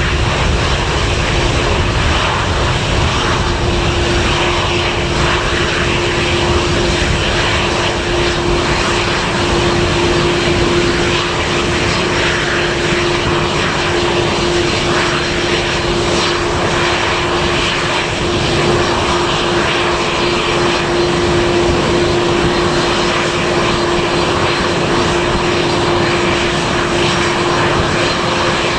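Aircraft engines running steadily, a broad engine noise with one steady hum held throughout, neither building up nor fading away.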